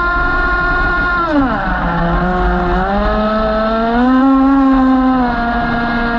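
Radio-controlled model boat's motor running with a steady whine; its pitch falls about a second in, then climbs back up and holds steady.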